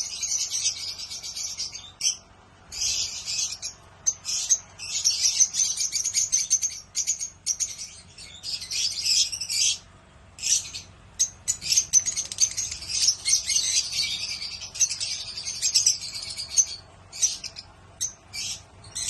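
A group of small caged finches chirping and tweeting. Many high calls overlap in busy stretches, with brief lulls every few seconds.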